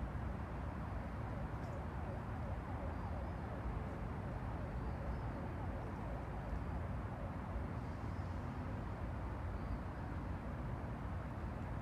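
Small waves of the Han River lapping at the bank, a steady wash of water over a low rumble, with faint short high chirps now and then.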